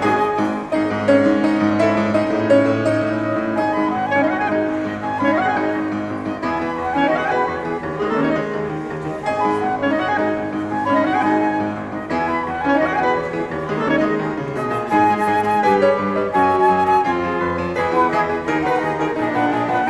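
Live chamber music: two flutes and a clarinet playing the melody over piano accompaniment.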